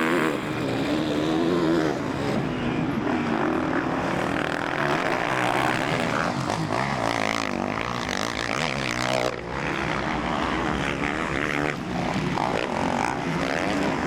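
Motocross bike engines revving hard on the track, several overlapping engine notes that keep rising and falling in pitch as the bikes accelerate and shift.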